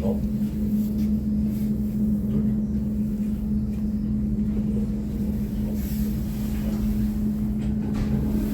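Steady running noise inside a moving regional train carriage: an even low rumble with a constant hum.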